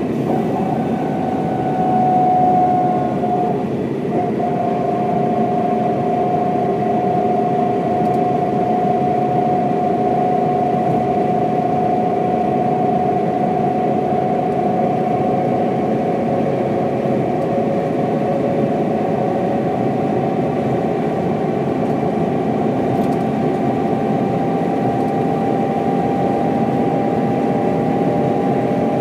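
A 1995 Mercedes-Benz O407 bus driving along, its diesel engine and drivetrain running steadily under a high whine that climbs slowly in pitch as the bus picks up speed.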